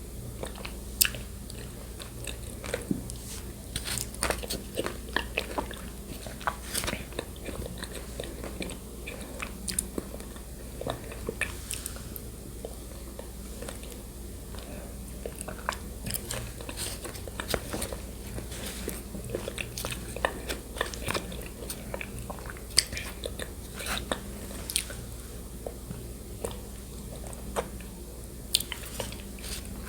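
Close-miked ASMR eating sounds: chewing and swallowing yogurt with shredded coconut, with many small irregular wet mouth clicks and light crunches over a steady low microphone hum.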